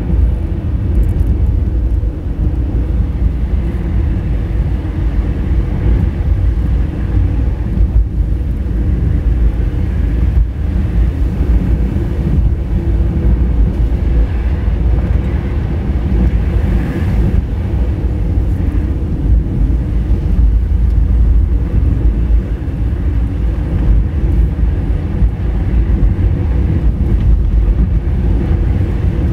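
Honda Fit hatchback driving along, a steady low rumble of engine and road noise with no sharp breaks.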